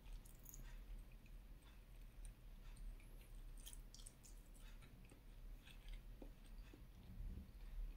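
Faint chewing of fried banana, with scattered small wet mouth clicks.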